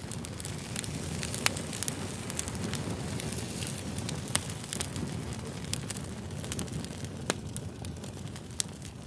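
Fire crackling: a steady low rumble of flames with frequent sharp pops and snaps, the loudest about one and a half seconds in and again near the middle.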